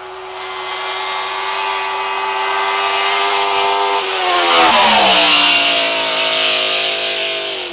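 A car drives past: its engine note grows steadily louder as it approaches, drops in pitch as it passes about four to five seconds in, then holds the lower note and slowly fades.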